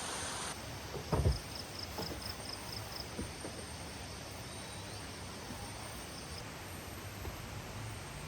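An insect chirping in quick, even pulses over a steady outdoor hiss, with a single loud knock about a second in and a few faint ticks.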